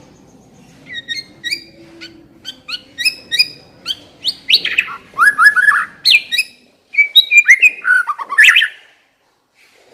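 White-rumped shama (murai batu) singing. It is a run of short, sharp whistled notes starting about a second in, growing louder and denser, with quick downward-sweeping phrases, and it stops shortly before the end.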